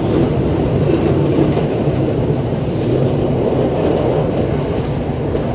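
Passenger train on the Colombo–Badulla night mail service running along the track, a steady loud rumble.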